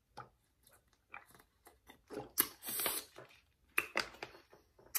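Close-miked mouth sounds of eating: chewing with small irregular wet clicks and crunches. A louder noisy stretch comes a little past the middle and lasts most of a second.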